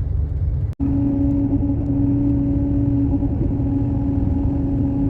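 Bus running: a steady low engine rumble with a steady hum over it. The sound drops out for an instant about a second in, and the hum sets in after that break.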